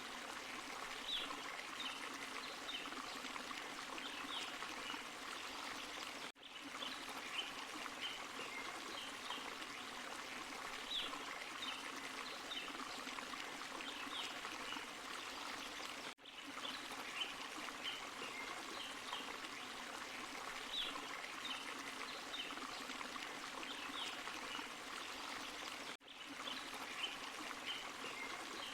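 Forest stream and small waterfall running steadily, a constant splashing rush of water with brief high bright notes over it. The sound drops out for a moment about every ten seconds.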